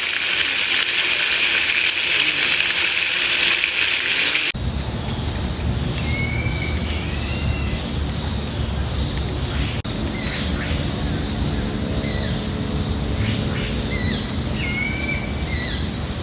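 A loud, even hiss cuts off abruptly about four and a half seconds in. Then birds chirp in short calls over a steady high-pitched insect drone and a low rumble of forest ambience.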